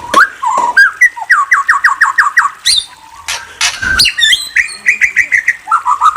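A songbird singing: two fast runs of repeated down-slurred whistled notes, one about a second in and another near the end, with high, sharp notes in between.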